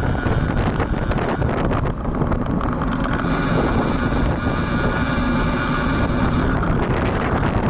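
Strong wind buffeting the built-in microphone of a bike-mounted action camera while riding in a storm. A steady hum with several pitches joins about three seconds in.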